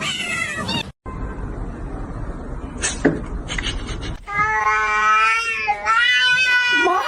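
Cat meowing in two long, drawn-out calls over the last three seconds, after a noisy stretch with a couple of sharp knocks.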